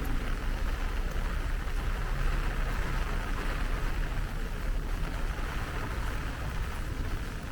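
Heavy rain falling: a steady, even hiss with a low rumble underneath.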